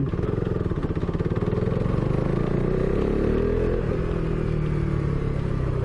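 Motorcycle engine running while being ridden, its pitch rising a little through the middle and easing down near the end as it slows.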